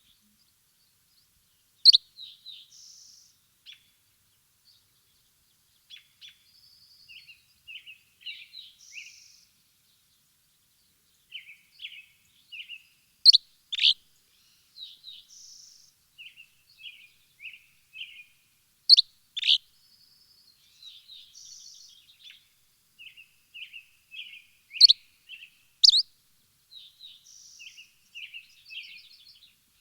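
Small birds chirping, high and clear, with softer twittering and trills between loud, sharp calls that come every several seconds, often in pairs. There is no background noise between the calls.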